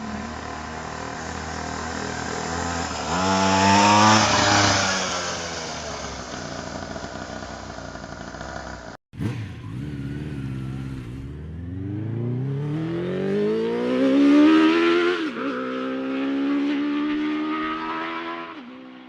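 Small motorcycle engines revving and accelerating. The note rises and falls around three to four seconds in and breaks off sharply about nine seconds in. It then climbs steadily for several seconds, dips, and holds steady near the end.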